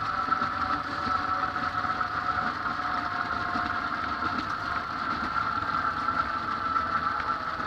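Cessna 206's six-cylinder piston engine and propeller running steadily at low power, its tone sinking slightly.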